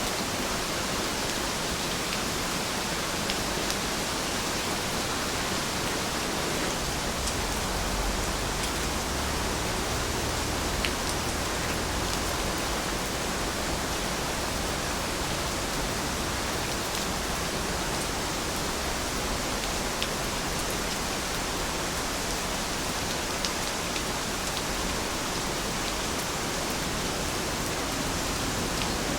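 Steady rainfall: an even, constant hiss of rain with a few sharper drop ticks scattered through it.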